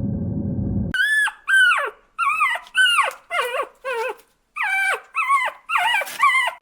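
A loud, low, noisy rumble cuts off about a second in. It is followed by a quick series of about a dozen short, high animal calls, each sliding down in pitch.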